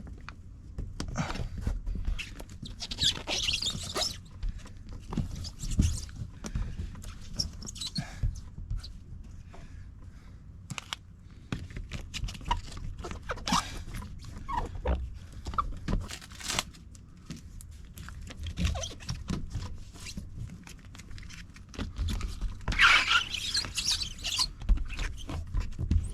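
Tape pulled off a roll in two long tearing rasps, one a few seconds in and one near the end, with knocking, clicking and rustling of hands handling the tape and the unit in between.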